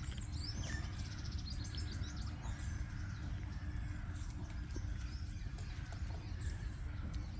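Rural outdoor ambience: a steady low rumble with faint, scattered bird chirps.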